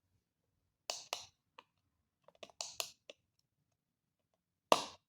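Handling of a small battery-powered alarm clock whose battery is making a poor connection: a string of irregular clicks and light knocks, the loudest near the end.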